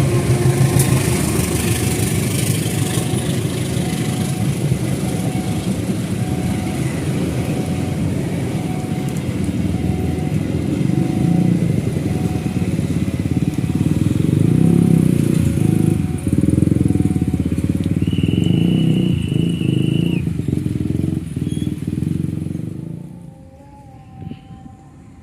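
A long train passing a level crossing, its wheels rumbling and clattering steadily, while the crossing warning bell dings at an even beat. The rumble dies away about 23 seconds in as the train clears the crossing.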